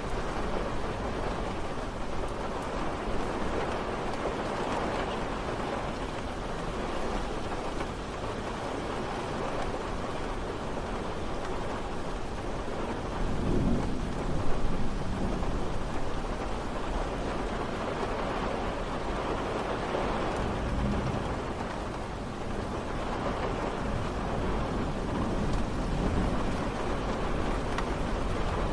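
Steady rain falling, an even hiss throughout, with a low rumble swelling about halfway through and a fainter one a little later.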